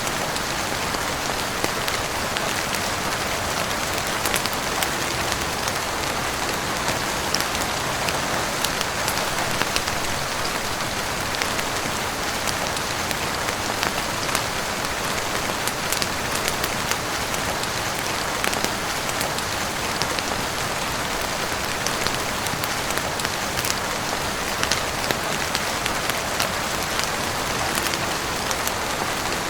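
Steady heavy rain falling on a roof, an even hiss with many small sharp ticks scattered throughout.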